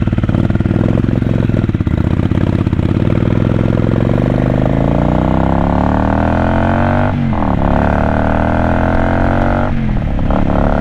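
750 cc motorcycle engine pulling from low revs and accelerating, its pitch rising steadily, with two upshifts about seven and ten seconds in where the note breaks and drops before climbing again.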